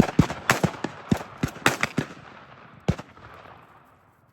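A rapid volley of shotgun fire from several guns: about a dozen sharp shots, some overlapping, in the first three seconds. A last single shot comes near three seconds, and its echo fades away.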